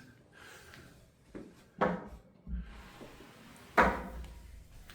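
A door being handled in a small room: a few short clunks and knocks, the loudest a sharp clack about four seconds in.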